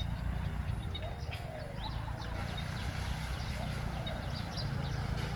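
Spotted doves cooing in repeated short phrases, with small birds chirping and a low rumble underneath.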